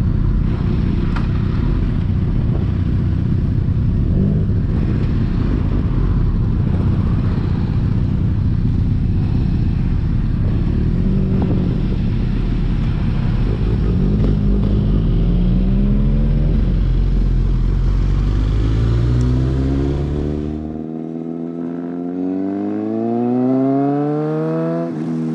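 Motorcycle riding at speed under heavy wind rumble on the microphone. About 21 seconds in the wind noise drops away and the engine is heard accelerating, its pitch climbing steadily, dipping briefly near the end and climbing again.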